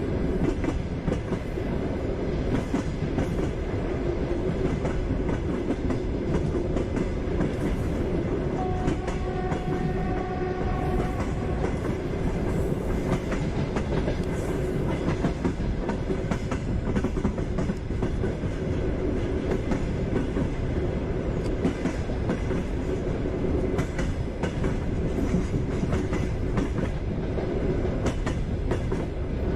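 Passenger train running along the track: a steady rumble with the rhythmic clickety-clack of wheels over rail joints. About nine seconds in, a thin steady tone is heard for a few seconds.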